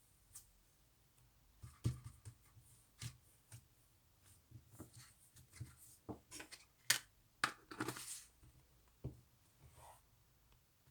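Slime being handled and pressed by hand, giving irregular small clicks, pops and crackles, with a denser crackly stretch about 7.5 to 8 seconds in.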